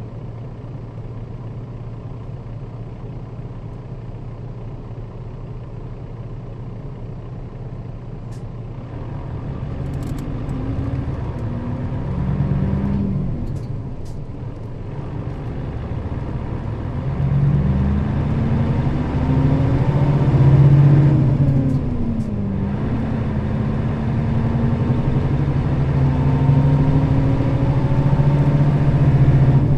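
Nissan Diesel KL-RA552RBN bus engine, running steadily at first. From about ten seconds in, it pulls harder, its pitch rising and falling several times as it accelerates through the gears, then running steadier near the end.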